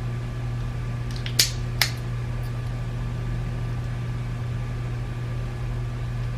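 Two sharp clicks less than half a second apart, about a second and a half in, from small parts of a BMW iDrive controller being handled during disassembly, over a steady low background hum.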